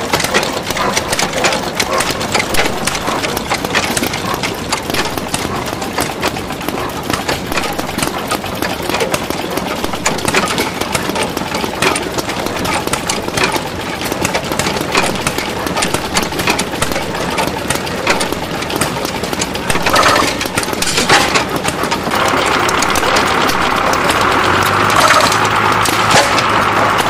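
Galloway 16 hp single-cylinder hit-and-miss engine running, with a steady clatter of rapid sharp knocks throughout. About three quarters of the way through, a steady hum joins in.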